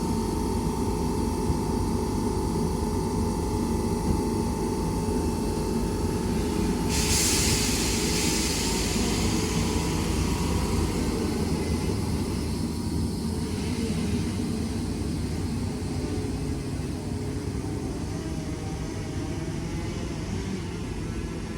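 Class 319 electric multiple unit pulling away from the station: a steady rumble with a whine that fades out about ten seconds in, and a hiss that comes in suddenly about seven seconds in. The whole sound slowly dies away as the train leaves.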